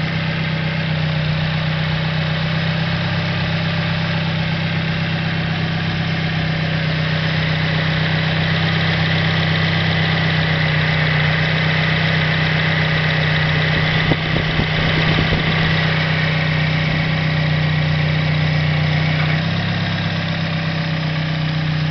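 Toyota 1NZ 1.5-litre four-cylinder petrol engine idling steadily, with a short knock and a few clicks about fourteen seconds in.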